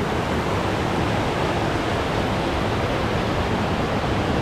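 Small waterfall on a mountain creek: a steady rush of cascading water.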